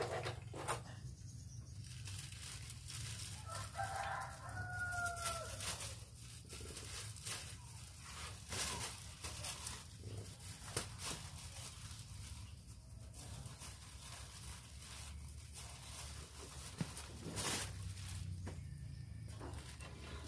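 A single drawn-out bird call about four seconds in, slightly falling in pitch, over a steady low hum and scattered light clicks.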